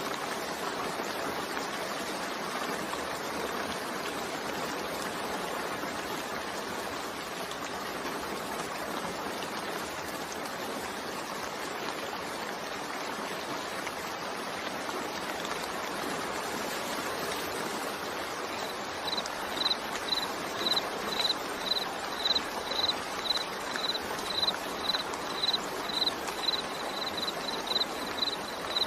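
Steady rain falling, an even hiss. Starting about two-thirds of the way in, a short high chirp repeats about twice a second, louder than the rain.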